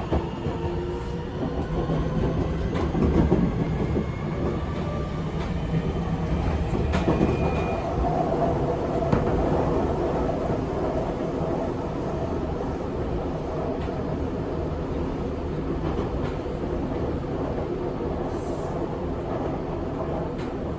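Seibu 6000 series electric train with a Mitsubishi SiC VVVF inverter, heard from inside the car. In the first few seconds the inverter and traction motor whine rises in pitch as the train gathers speed, then fades into a steady rumble of wheels on rail with occasional clicks.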